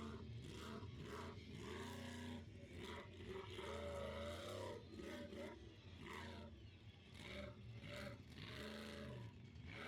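Monster truck engine revving repeatedly, its pitch rising and falling in waves over a steady low drone, heard fairly faintly.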